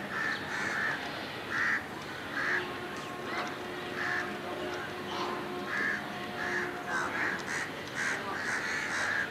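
Birds calling over and over, short harsh calls roughly once a second, with a faint steady tone underneath in the middle few seconds.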